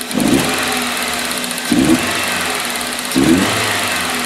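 A 2000 Chevy Prizm's four-cylinder engine being revved with three quick throttle snaps about a second and a half apart. It is running with cylinder one's fuel injector unplugged and a compression gauge in that cylinder.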